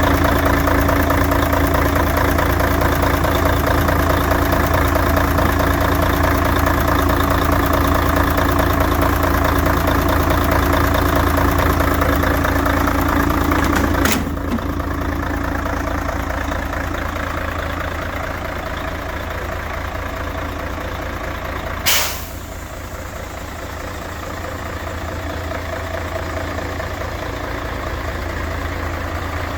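Mercedes-Benz Actros 1843 tractor unit's diesel engine idling steadily. About halfway through there is a sharp click, after which the engine sounds quieter. About three-quarters of the way through comes a short, loud hiss of released air from the air brakes.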